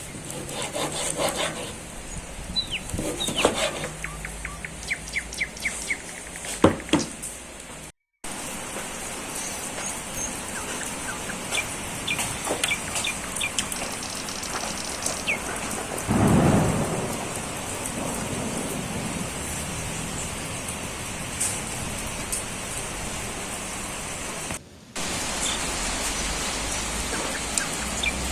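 Outdoor ambience: birds chirping and trilling over a steady hiss, with scattered small clicks and a low rumble that swells about sixteen seconds in and fades.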